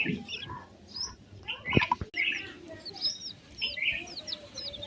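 Several birds chirping and calling over one another in short, quick notes and little whistled glides, with a sharp click about two seconds in.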